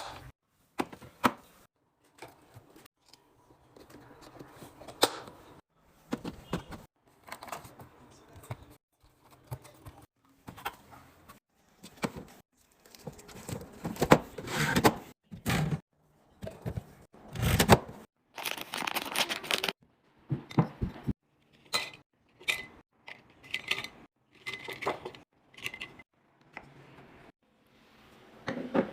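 A series of short handling sounds: packaging rustling and tearing, with clicks and knocks as containers and items are set down, each burst cut off abruptly.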